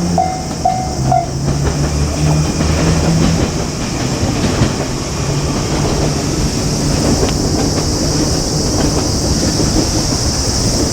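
JR Kyushu 817 series electric train running past a level crossing, with a dense continuous rumble and its wheels clacking over the rail joints. The crossing's warning bell rings about three times a second and drops out about a second in.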